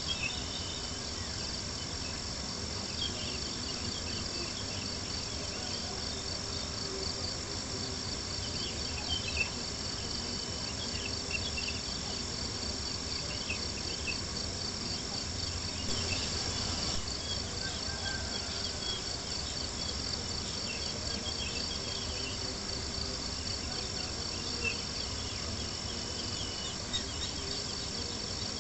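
Crickets chirping in a steady, continuous chorus, with small campfire crackles scattered through and a soft low hiss underneath.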